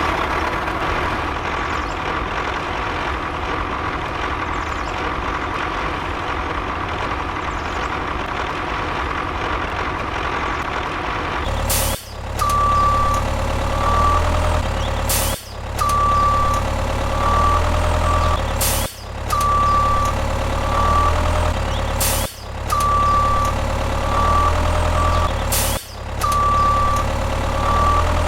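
A steady machine hum with a high whine for the first twelve seconds or so. Then comes a looped truck sound with a low engine rumble and a pattern of beeps, one long and then several short. It restarts with a click about every three and a half seconds.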